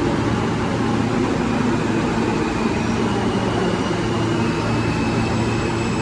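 New York City subway L train running through the station: a steady, loud rumble and hum, with faint high-pitched tones from the wheels and motors coming in about halfway and strengthening near the end.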